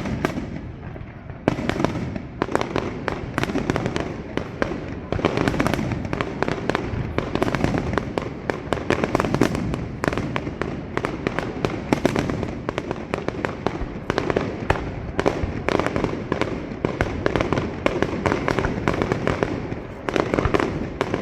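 Fireworks display: a dense, continuous barrage of shell bursts and crackling, many bangs a second, picking up about a second and a half in.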